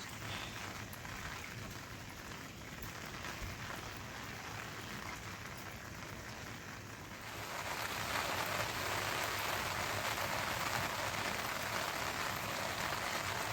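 Steady rain falling, growing louder about halfway through.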